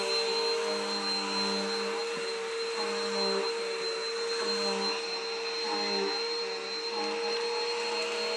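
Vacuum cleaner running steadily, a high whine over its motor noise. Its lower hum wavers, coming and going about once a second.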